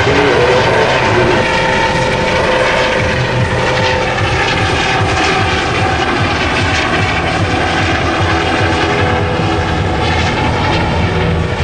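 Aircraft engine noise: a loud, steady drone with several held tones over a pulsing low rumble.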